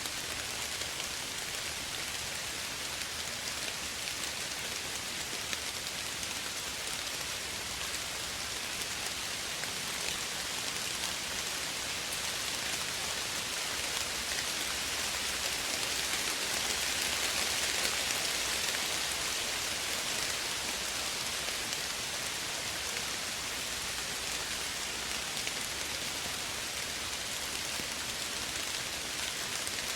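Steady soft rain falling, an even hiss of many drops on surfaces, swelling a little around the middle.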